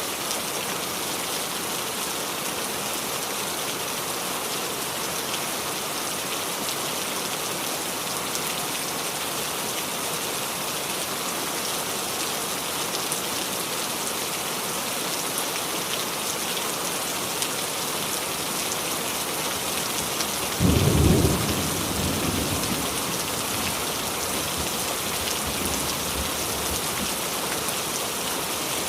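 Steady rain falling and dripping on a small tree's leaves. About two-thirds of the way through, a sudden low clap of thunder breaks in and rumbles away over several seconds.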